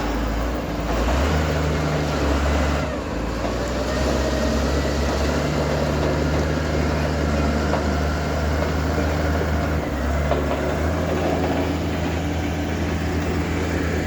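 Heavy diesel engine running steadily at close range, its low note shifting a few times.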